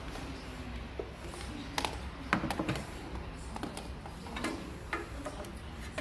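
Irregular clicks and clatter of hand tools and metal parts being worked, with a brief flurry about two seconds in.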